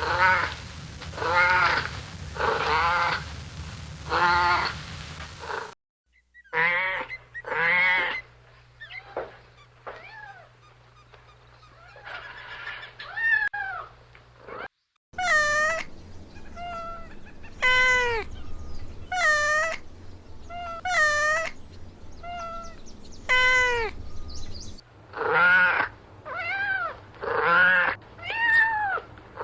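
Kittens meowing over and over, one call every second or two, each rising and then falling in pitch. The run is broken by two abrupt cuts between spliced clips.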